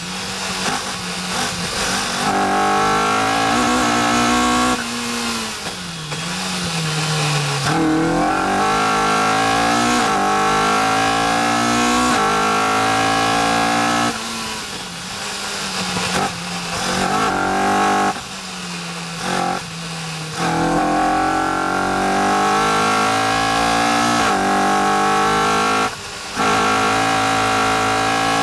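Caterham R400's four-cylinder engine under hard acceleration, heard from the open cockpit with wind rush. The pitch climbs through each gear and breaks off in short dips at the gear changes and lifts for braking.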